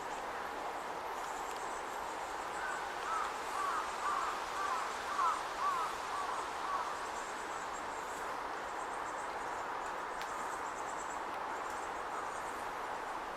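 A bird gives a run of about a dozen short calls, each rising and falling in pitch, from about two and a half seconds to seven seconds in. Behind it is a steady outdoor hiss with a faint, pulsing high insect buzz.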